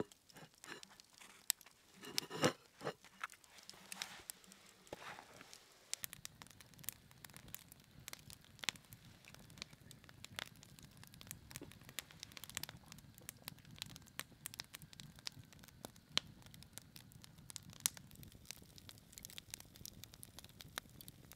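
Campfire crackling, with irregular small pops and snaps throughout and a few louder rustling sounds in the first few seconds.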